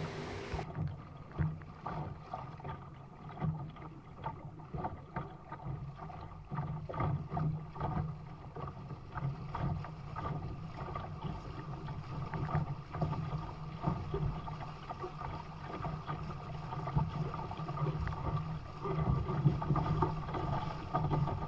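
Water slapping and splashing against the hull of a Laser sailing dinghy under way, in frequent irregular knocks over a low, muffled rumble.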